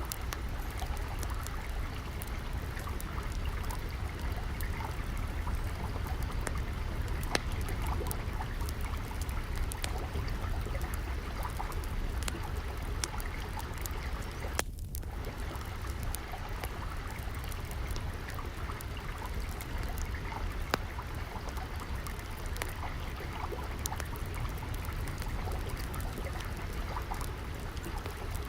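Steady flowing, trickling water, with scattered sharp crackles and pops of a wood fire over it.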